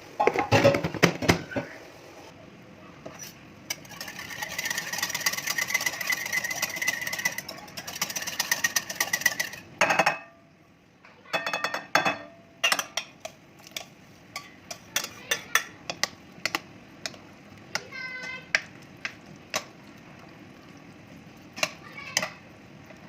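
Kitchen food-preparation sounds: a fast mechanical rattle for several seconds, then a string of sharp clicks and knocks of utensils.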